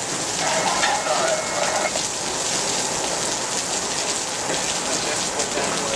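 Heavy rain falling steadily in a thunderstorm, with a faint pitched sound briefly in the first two seconds.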